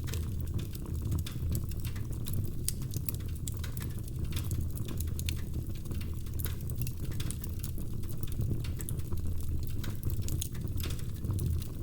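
Wood fire crackling in a fireplace: frequent irregular sharp pops and snaps from the burning logs over a steady low rumble of the flames.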